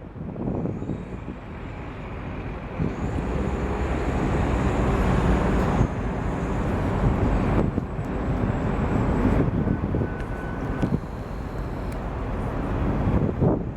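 A steady low rumbling roar, swelling a few seconds in and easing near the end, with a faint thin tone briefly around the middle.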